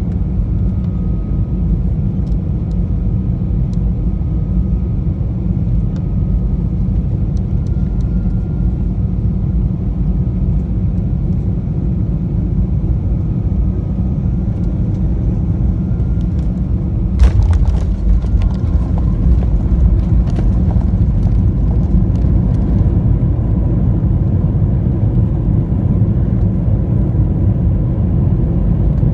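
Steady low rumble of an Airbus A320 cabin on the landing run-in. About two-thirds of the way through, a sudden thump as the wheels touch down, followed by several seconds of rattling and a louder rumble as the aircraft rolls out on the runway.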